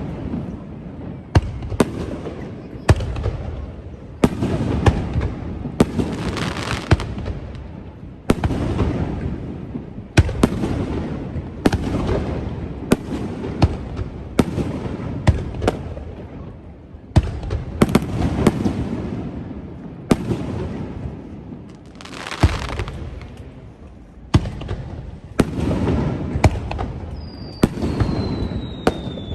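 Aerial fireworks bursting in quick succession, a sharp boom every second or two, each trailing off over about a second. A thin falling whistle comes near the end.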